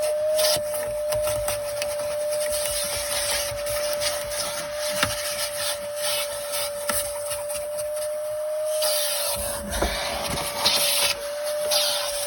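Vacuum cleaner running with a steady high whine while its nozzle rubs and scrapes over the carpet and seat fabric, with a few knocks as it hits the trim.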